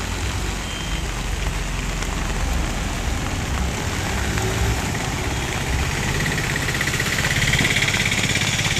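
Heavy rain falling on a flooded street, a steady hiss that grows louder over the last few seconds, with a small vehicle engine running low underneath.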